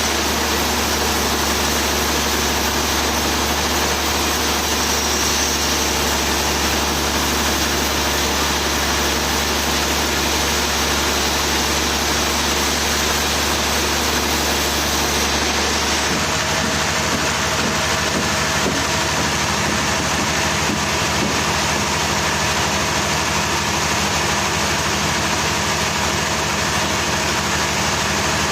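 Engine running steadily at a constant pitch, its low tone changing a little past halfway through.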